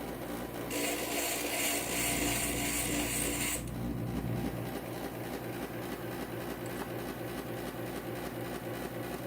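Inland stained-glass grinder's motor running steadily, with about three seconds of glass being pressed against the spinning diamond bit, a harsh high grinding hiss that starts about a second in and stops sharply.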